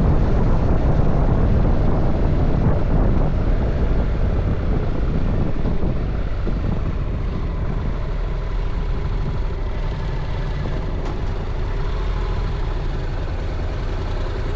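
Honda NC750X's parallel-twin engine running under way, with heavy wind rush on the camera microphone. The overall level drops about six seconds in, and a steadier engine note comes through after that.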